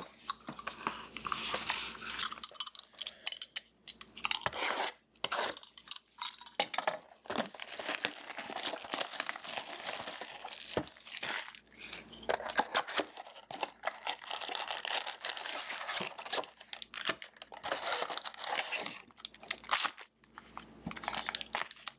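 Packaging being torn open and crinkled: a hobby box of trading cards being unwrapped, with dense, irregular ripping and rustling of plastic and foil pack wrappers and a few brief pauses.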